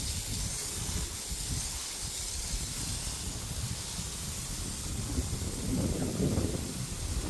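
Garden hose spraying water in a steady hiss.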